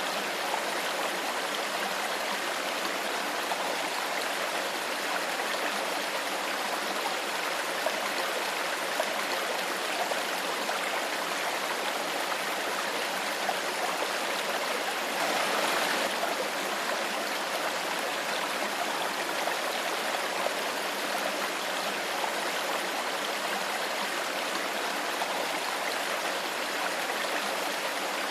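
A shallow stream of clear water flowing and babbling steadily, with a slightly louder swell of water about halfway through.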